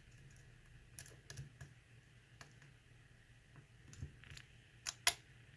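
Lock pick working the pins of a pin tumbler lock under increased tension from the tension wrench: faint, irregular small clicks and scrapes, two sharper clicks near the end.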